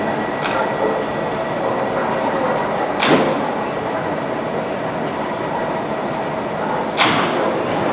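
Class 350 Desiro electric multiple unit standing at a station platform, with a steady drone of its running equipment and the station. Two sharp knocks stand out, about three seconds in and again near the end.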